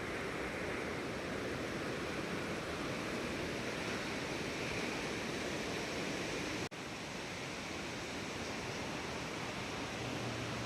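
Waterfall: a steady rush of falling water, broken once by a very short gap about two-thirds of the way through.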